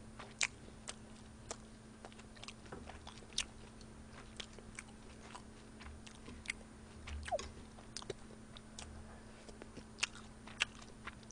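Close-miked chewing: soft mouth clicks and smacks at irregular intervals, over a faint steady low hum.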